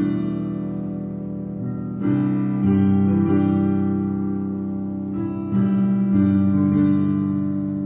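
Guitar music: slow, sustained strummed chords ringing out, with the chord changing about two seconds in and again about five and a half seconds in.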